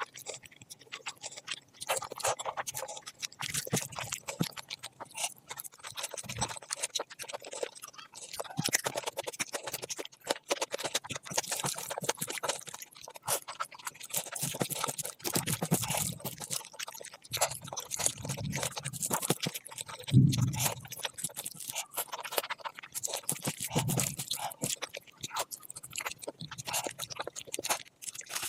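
Close-miked eating: continuous chewing with wet lip smacks and mouth clicks, and a few short low sounds along the way.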